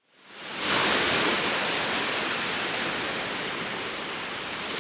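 Outdoor ambience: a steady rushing noise fades in over the first second, with a single short, high, downward-sliding bird chirp about three seconds in.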